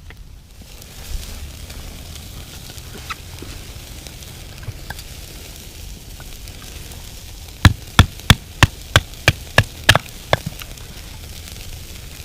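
Wood being split: about nine sharp wooden knocks in quick succession, roughly three a second, a little past the middle. Beneath them a campfire crackles faintly.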